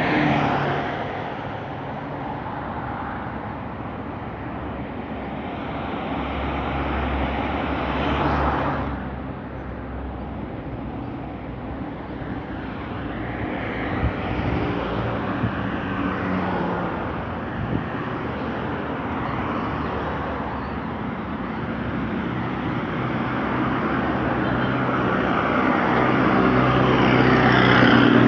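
City street traffic: a steady rush of engines and tyres, with vehicles passing and swelling louder, once about eight seconds in and most loudly near the end, and a few faint knocks midway.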